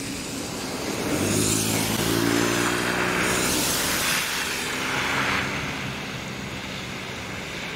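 Tobu 6050-series electric train running as it approaches, a steady hum with several pitches held level, swelling about a second in and easing off after the middle.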